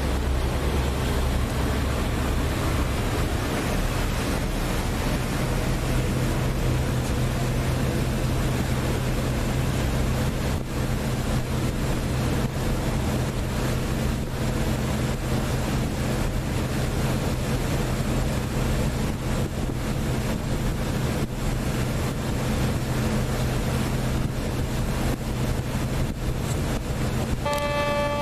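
Passenger boat under way, a steady engine drone with rushing water and wind on the microphone. Near the end a horn starts to sound, a sustained tone with several pitches: the signal that the boat will soon arrive at port.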